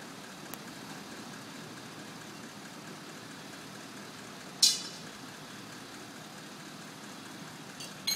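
Crane truck's diesel engine running steadily at idle, with a brief, sharp noise about four and a half seconds in and a smaller one at the very end.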